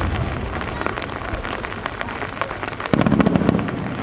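Steady rain falling, with many sharp close drop ticks; a louder low thump and rumble sets in about three seconds in.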